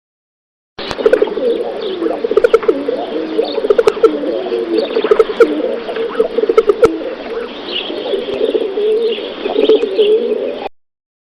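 Birds calling: low, wavering calls repeat densely throughout, with short higher chirps above them. The recording starts abruptly about a second in and cuts off shortly before the end.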